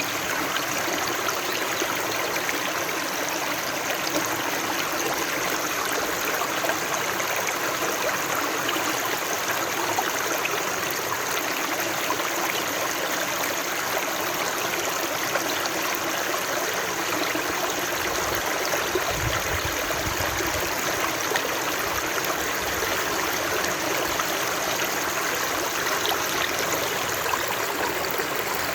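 Running water rushing steadily, like a stream flowing over rocks. A brief low rumble comes in about two-thirds of the way through.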